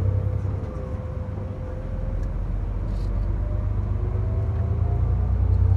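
Steady low rumble of a car on the move, with a faint whine that drifts slowly up and down in pitch; it grows a little louder near the end.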